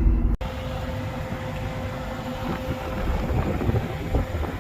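A vehicle running: a steady low rumble with a faint steady hum, starting abruptly about half a second in.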